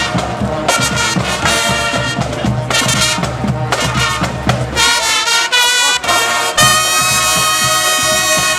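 Brass band playing march music, trumpets and trombones together, ending on a long held chord.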